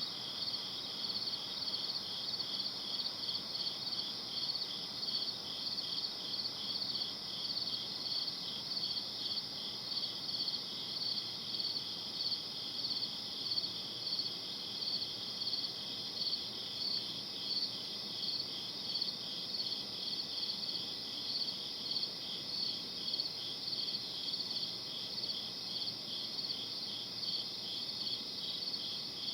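Crickets chirping at night in a steady chorus: high chirps that repeat at an even rhythm, with a second, slightly lower row of chirps running faster beneath them.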